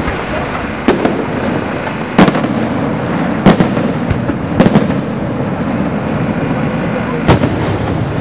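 Fireworks display: aerial shells bursting as about half a dozen sharp bangs, spread irregularly, over a steady loud din.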